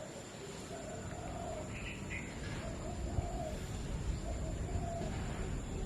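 A dove cooing in short notes repeated about every second, over steady rain noise, with a brief higher bird chirp about two seconds in.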